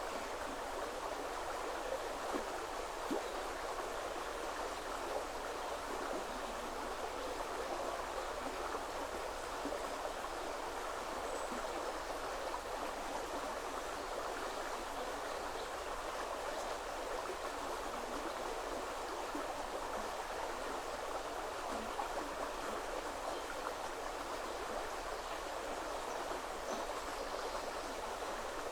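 Woodland river water flowing and babbling over stones in a steady, unbroken rush.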